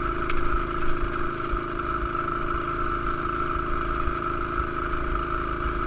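Pit bike's small engine running at a steady, unchanging pitch.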